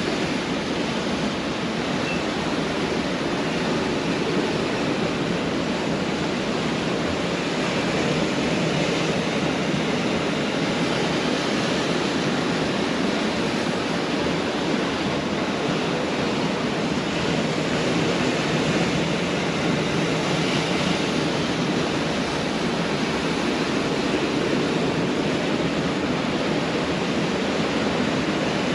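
Pacific Ocean surf: a steady, continuous wash of breaking waves, with no single wave standing out.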